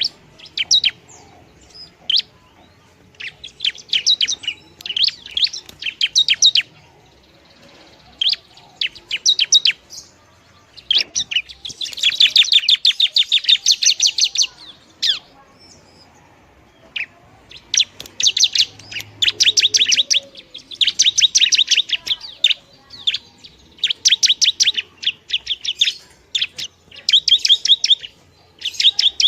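Long-tailed shrike (pentet) singing: repeated bursts of fast, high chattering notes, each burst one to three seconds long, with the longest and densest run about twelve seconds in.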